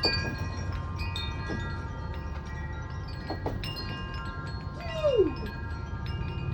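Wind chimes ringing in gusty wind, many overlapping tones struck again and again over a low wind rumble. About five seconds in, a short falling squeal stands out above the chimes.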